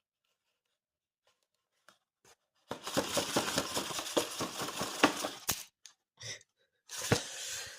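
Paper crinkling and rustling with many small crackling clicks, one dense stretch of about three seconds followed by two shorter bursts.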